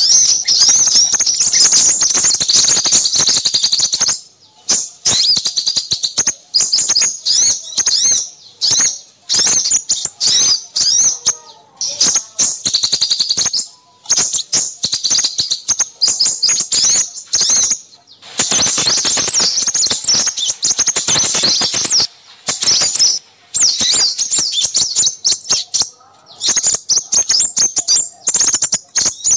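Busy chorus of small songbirds: rapid, high-pitched chirps and trills packed closely together, broken by a few short pauses. It is a lure recording of noisy small birds used to draw in minivets and sunbirds.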